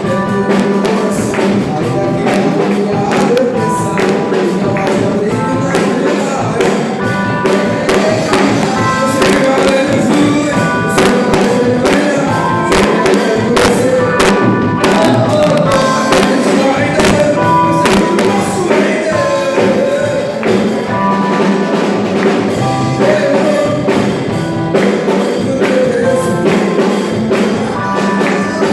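Gospel worship music with singing over a steady beat, a tambourine keeping the rhythm.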